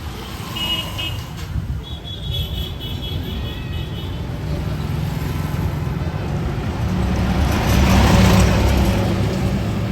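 Road traffic: a motor vehicle's engine hums low and steady over tyre and road noise. It grows louder as the vehicle comes close, loudest about eight seconds in, then eases off.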